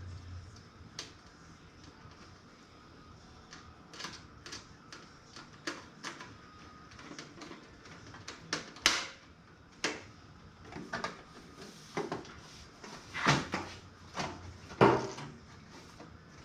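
Irregular clicks, taps and knocks of computer parts being handled and fitted into a toaster oven's metal case. They come more often in the second half, where a few sharper knocks stand out.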